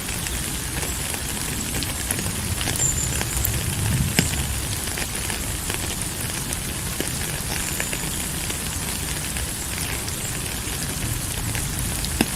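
Steady rain, with many individual drops clicking and pattering over a low rumble that swells briefly about four seconds in.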